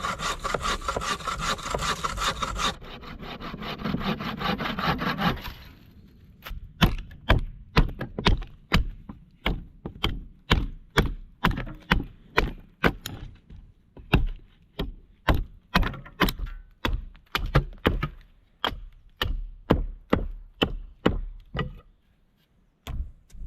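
Wood being sawn for about five seconds. Then a long run of sharp, evenly spaced blows on wood, about two a second, such as chopping or hammering timber.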